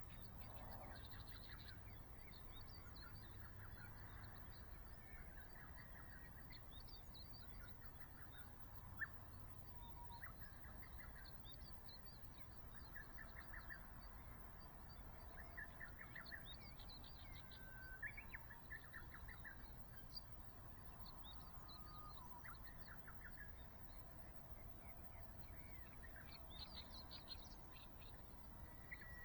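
Faint wild birds chirping and calling on and off over a low background hiss, with one sharp click about nine seconds in.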